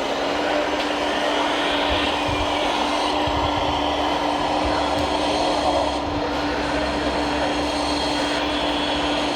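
Small electric motors of radio-controlled model machines running: a steady hum over a dense rushing, whirring noise.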